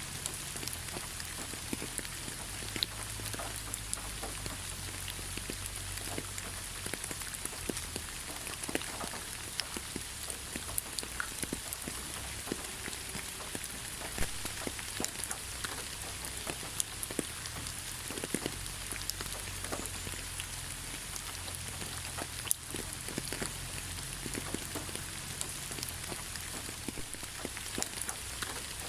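Steady rain falling on forest foliage, with many separate drops tapping close by over a constant hiss.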